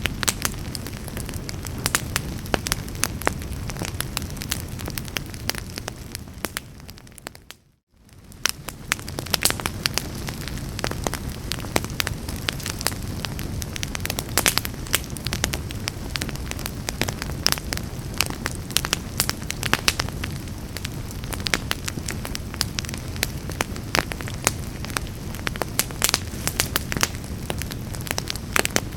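Fireplace fire crackling and popping with irregular sharp snaps over a steady low rush of flames. About seven seconds in, it fades down to silence for a moment and then fades back in, like the seam of a looped recording.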